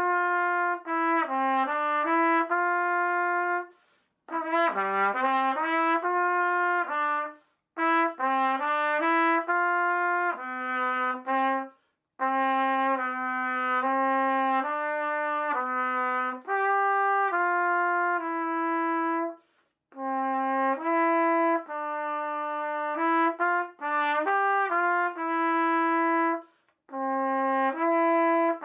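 A single trumpet playing the lower (second) part of a trumpet duet as a slow, legato melody. It plays in phrases of a few seconds each, with short breaks for breath in between.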